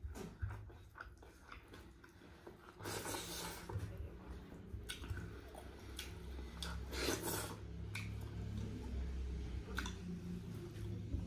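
A person eating close to the microphone: chewing and wet mouth sounds with scattered small clicks, and two louder noisy bursts, one a few seconds in and one past the middle.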